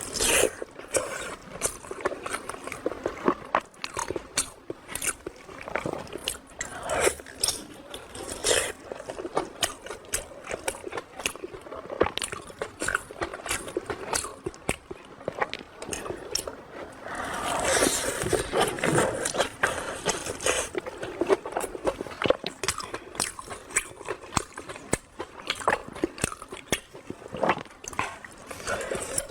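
Close-miked eating: crunchy bites and chewing, a dense run of sharp, irregular crackles, with a busier, noisier stretch of crunching about two-thirds of the way through.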